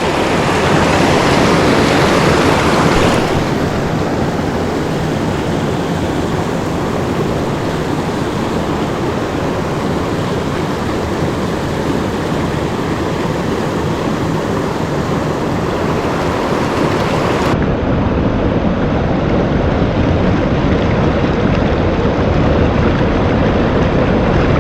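Creek water rushing over rocks: a steady, loud rush of moving water.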